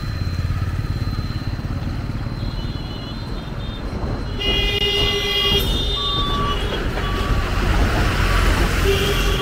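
Road traffic at a railway level crossing: engines rumbling steadily. From about four and a half seconds in, several vehicle horns start honking and beeping on top of the engines.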